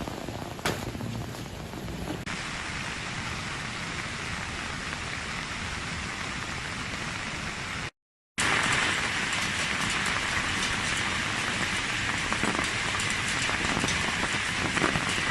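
Steady rushing water noise of heavy rain or flood runoff, in two stretches joined by an abrupt cut about eight seconds in; the second stretch is louder.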